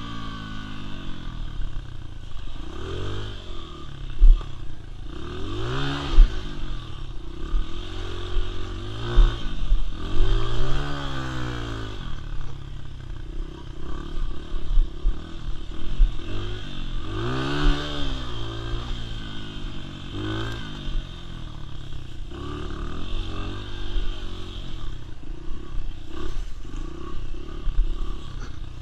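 Dirt bike engine revving up and dropping back again and again, with low knocks and rattles mixed in.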